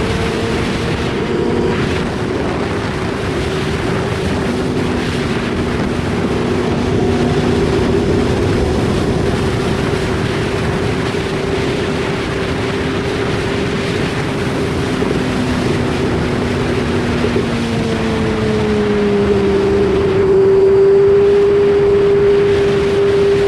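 BMW S1000RR inline-four sport-bike engine running at steady, fairly high revs under way, with wind rushing over the camera microphone. The engine note drops a little about three-quarters of the way through, then holds steady.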